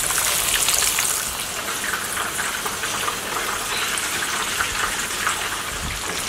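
Crumbed catfish fillets frying in hot oil in a pan, a steady sizzle full of fine crackles.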